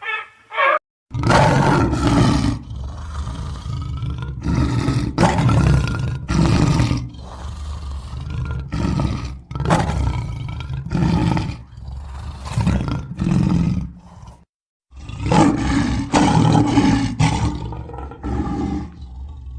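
A large wild animal roaring and growling in a long run of repeated calls, each half a second to a second long, which break off briefly about three quarters of the way through and then resume.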